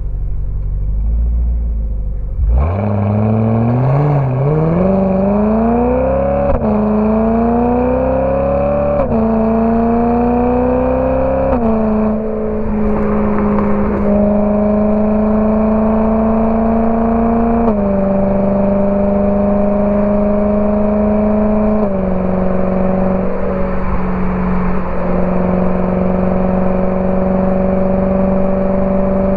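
BMW E92 M3's 4.0-litre V8 through a Borla ATAK exhaust, rumbling at low revs, then accelerating a couple of seconds in. Its pitch climbs and drops back through three quick upshifts, then it cruises at steady revs, with two more upshifts later.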